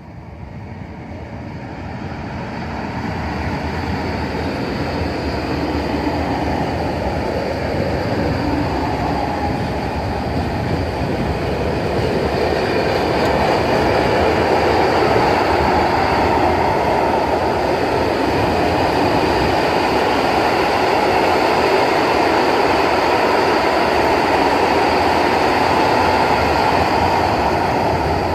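Freight train approaching and passing on the track, rising from faint to loud over the first dozen seconds, then a steady loud rumble of the wagons rolling by.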